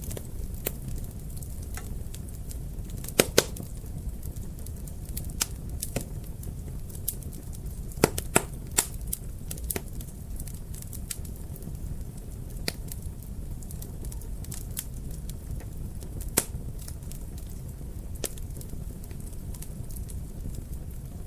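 Wood fire in a fireplace crackling: irregular sharp pops and snaps over a steady low rumble of the flames. The loudest are a quick pair of pops about three seconds in, another pair around eight seconds, and a single pop about two-thirds of the way through.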